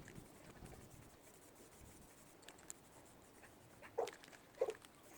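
Quiet background with faint ticks, then two short animal calls about half a second apart near the end.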